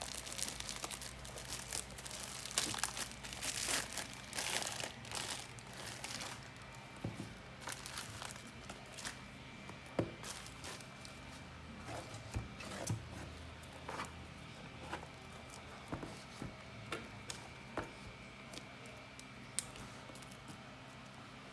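Packaging crinkling and rustling as a box is unwrapped, dense for the first six seconds or so, then giving way to scattered clicks and taps of handling.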